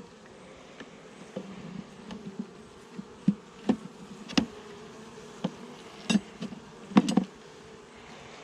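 A swarm of Saskatraz honeybees keeps up a steady buzz around an opened hive. Through it comes a series of sharp knocks and taps as hive frames and parts are handled, with the loudest around four and seven seconds in.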